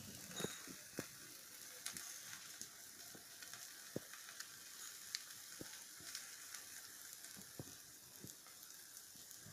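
Eggplant slices frying in a little mustard oil in a nonstick pan: a soft, steady sizzle with scattered small pops and crackles.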